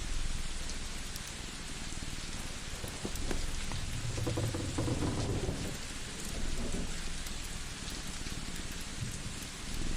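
Layered ambience: a steady rain-like hiss with scattered small crackles, as of a wood fire. A low rumble swells up about four seconds in and fades out a couple of seconds later.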